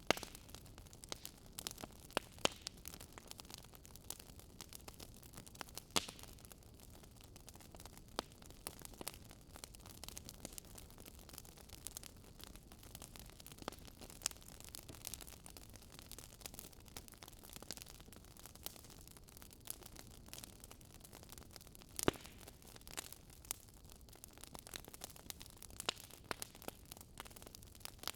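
Wood fire crackling in a fireplace: irregular sharp pops and snaps over a soft hiss, the loudest pops about 2, 6 and 22 seconds in.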